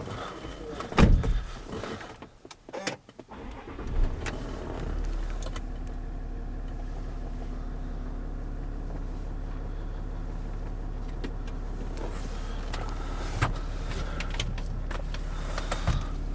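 A loud thump, then after a brief quiet gap a Land Rover engine starts about four seconds in and settles into a steady idle.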